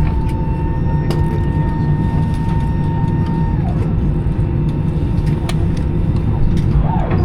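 Steady low rumble inside the cabin of an Airbus A320 at the end of its taxi. A thin whine in it stops with a short downward slide about three and a half seconds in, and there are a few light clicks.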